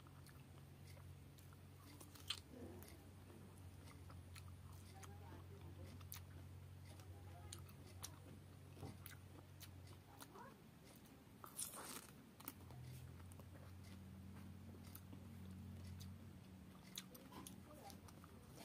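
Faint chewing and biting of soft pineapple chunks, with short wet mouth clicks, the sharpest about two seconds in and around the middle. A low steady hum sits underneath and drops out for a few seconds midway.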